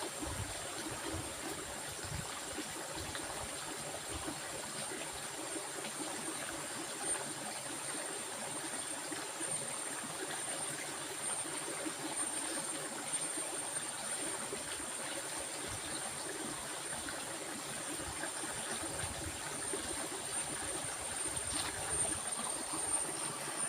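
Flowing stream water, a steady rushing and gurgling, with a thin constant high-pitched whine above it.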